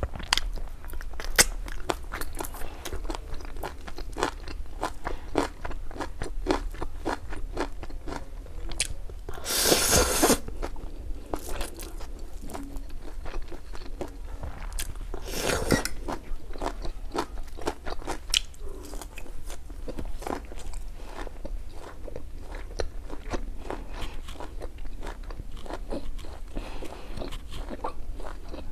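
Close-miked eating: steady crunching and chewing of raw leafy greens and spicy ramen noodles, many sharp crunches in quick succession. Twice there is a louder slurp about a second long, one a third of the way in and one about halfway.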